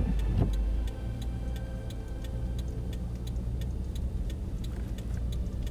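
A car's indicator ticking evenly, about two clicks a second, over the steady low rumble of the car driving.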